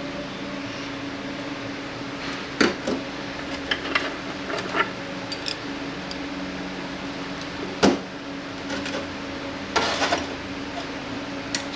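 Scattered light clinks and knocks of metal clutch parts being handled during teardown of a Kia A6LF2 six-speed automatic transmission, with a short cluster of rattles near the end, over a steady background hum.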